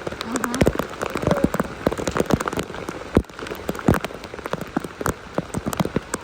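Rain falling, with many sharp drop taps at irregular intervals over a steady hiss.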